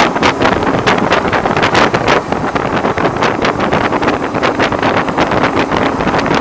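Heavy wind buffeting on the microphone of a BMW R1100R motorcycle under way at road speed, in rapid irregular gusts that drown out most of the boxer-twin engine running underneath. The rider puts the wind noise down to the motorcycle's screen.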